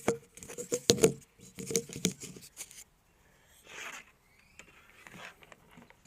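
Hands working electrical wires into a twist-on connector: a quick run of small clicks and rattles, then softer rustling of wire and plastic.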